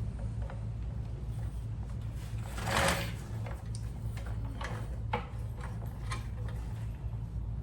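Small clicks and knocks of hand-work on the carburetor's fuel lines and fittings, with one louder scraping rustle about three seconds in, over a steady low hum.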